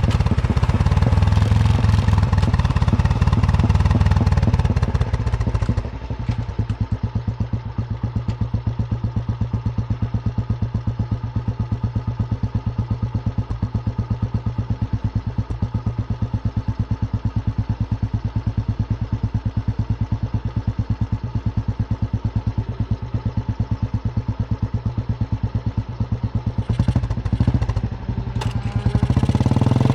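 Royal Enfield Bullet 350's single-cylinder engine running on the move, then after about six seconds settling to a slow, even thump at low revs, and revving up again near the end.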